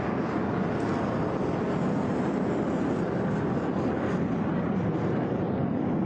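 Single-engine HAL Tejas jet fighter with its turbofan in afterburner, a steady, dense jet noise as it pulls into a steep climb from a slow-speed pass.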